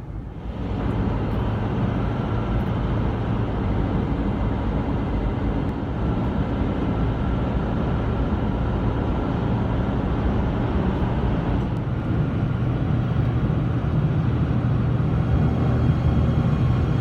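Steady road and engine noise of a Ford F350 pickup driving at highway speed, heard from inside the cab, with a low hum under a hiss of tyres and wind. It gets louder under a second in and then holds level.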